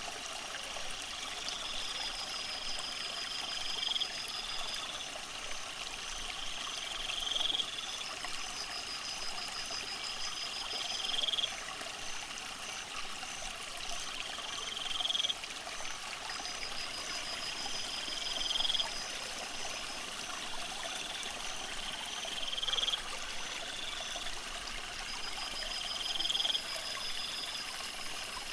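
Steady trickling and running water from the fish tank, with a high chirping call repeated about every three and a half seconds, each rising at its end, alternating with a faster pulsed trill.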